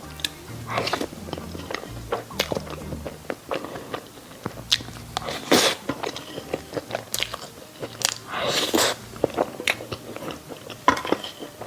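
A person eating close to the microphone: irregular bites and chewing, with one longer noisy stretch about eight seconds in, over soft background music.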